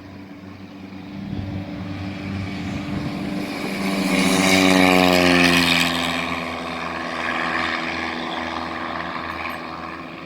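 Small propeller airplane flying past close by under engine power. Its drone swells to its loudest about halfway through, drops in pitch as it goes by, then fades.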